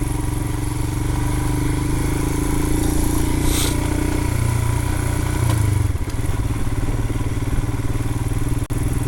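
Royal Enfield Himalayan's single-cylinder engine running steadily as the motorcycle rides a rough trail. Its note swells briefly about five seconds in, and there is a short hiss about three and a half seconds in.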